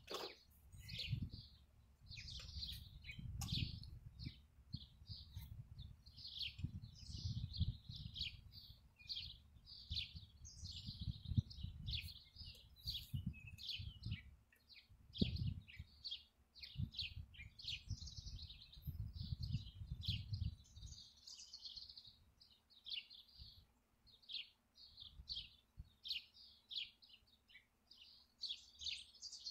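Small birds chirping repeatedly in quick, short calls. Under them an uneven low rumble stops about two-thirds of the way through.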